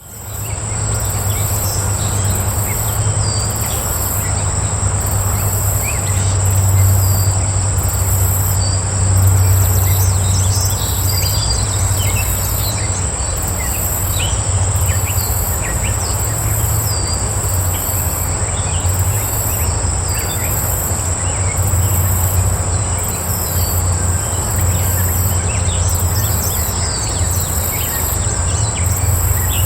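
Outdoor chorus of insects: a continuous high-pitched trill with a very high pulsing chirp repeating at an even pace above it, plus scattered short bird chirps. A steady low rumble runs underneath.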